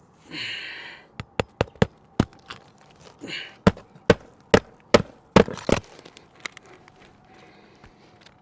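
Hammer nailing an old asphalt roof shingle back down: a few light tapping knocks to start a nail, then about six hard blows roughly 0.4 s apart driving it home. A short rasping sound comes before each run of blows.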